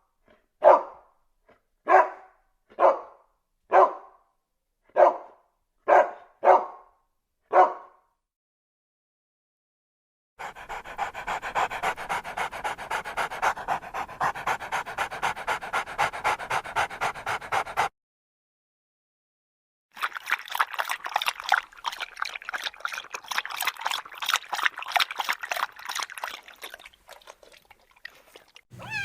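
A dog barking about eight times, roughly once a second, then, after a pause, panting rapidly in two stretches of several seconds each.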